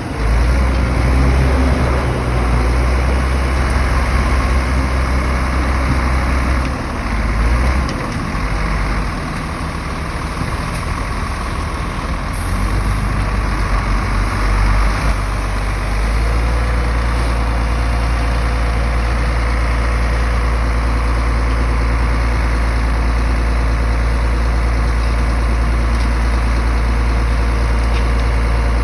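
Heavy diesel engine of earthmoving machinery running under varying load in the first half, then settling into a steady drone from about halfway through.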